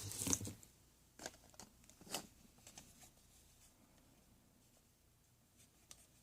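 A short burst of rustling right at the start, then a few scattered clicks and taps: small objects or packaging being handled.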